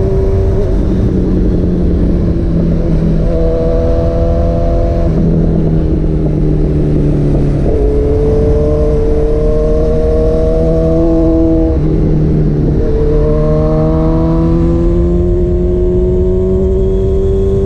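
2023 Honda CB1000R's inline-four, fitted with Black Widow headers and a Leo Vince exhaust, heard from the rider's seat on the move. The engine note climbs slowly for several seconds at a time and drops sharply in pitch about four times, over a steady low rush of wind.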